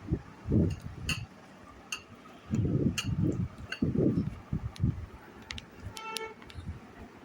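Serving spoon and hands clinking against steel plates and bowls in a few sharp ticks, with low muffled sounds of eating between them. A short pitched toot, like a distant horn, sounds about six seconds in.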